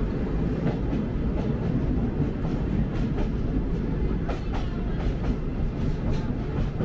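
Sagano Romantic Train cars running along the track, heard from on board: a steady low rumble of wheels on rail with frequent sharp clicks and knocks scattered through it.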